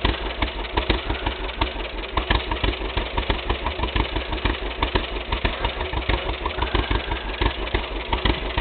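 John Deere tractor engine idling, running with a steady, regular pulse.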